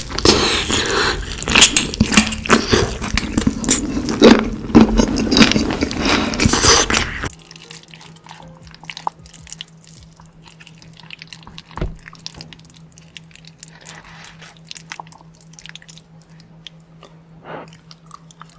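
Close-up eating sounds: loud, dense crunching and chewing for about the first seven seconds, then an abrupt drop to quieter, sparse chewing and mouth sounds over a steady low hum.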